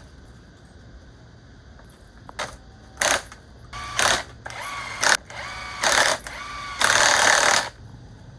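A power tool run in several short bursts, starting about two seconds in, with a whine and hiss in each; the last burst is the longest.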